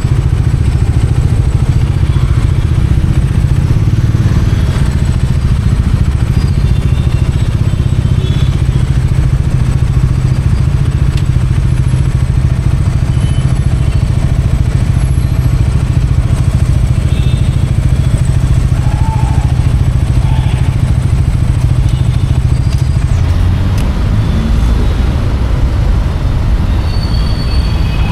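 Bajaj Dominar 400's single-cylinder engine and exhaust running steadily while riding through city traffic. The engine note changes near the end.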